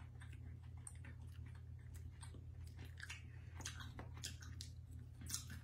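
Faint, irregular chewing of a hard, tough dried guava chili strip, the chewing clicks growing louder in the last couple of seconds.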